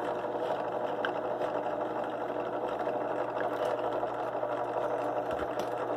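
Benchtop drill press running steadily, with a finishing nail in its chuck spinning against a small rivet to peen it tight.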